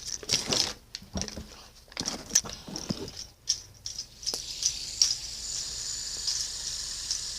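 Clicking and rattling of small hard objects being handled, then a steady faint high-pitched hiss.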